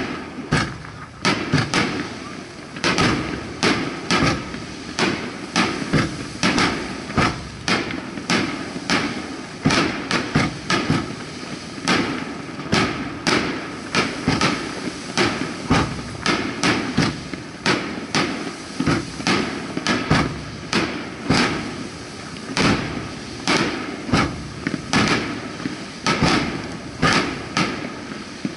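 Aerial fireworks shells fired in quick succession from the launch barge, heard at close range: a rapid, irregular run of sharp bangs, about two or three a second.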